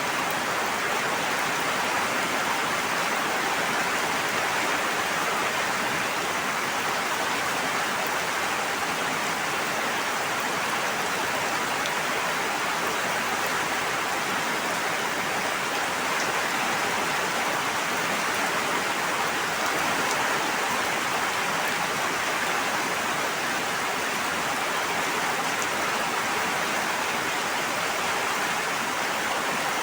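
Steady, unbroken rushing water sound, an even hiss with no distinct drops or splashes standing out.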